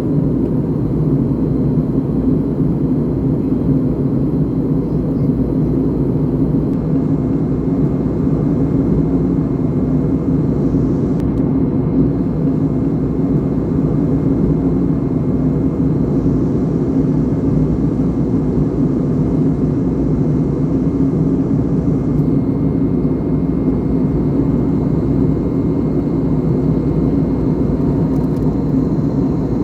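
Steady in-flight cabin noise of an Airbus A321neo with CFM LEAP-1A engines: an even, unchanging roar of engines and airflow, heaviest in the low-mid range, with a few faint steady whines above it.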